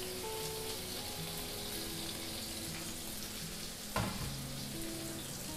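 Sliced shallots and garlic sizzling steadily in hot oil in a frying pan, with one sharp knock about four seconds in. Soft background music plays underneath.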